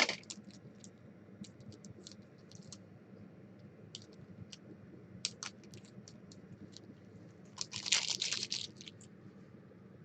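Trading cards being handled and flicked through, with scattered light clicks and snaps, and a burst of crinkling from a foil card-pack wrapper near the end.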